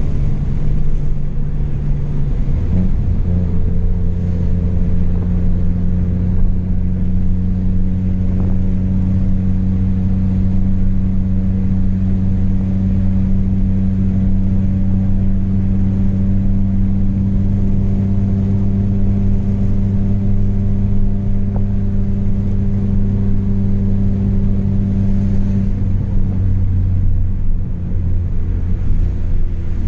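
Chevrolet Astra 2.0's four-cylinder engine through a straight-piped exhaust, droning steadily while the car drives. The drone's pitch changes about two and a half seconds in and again near the end.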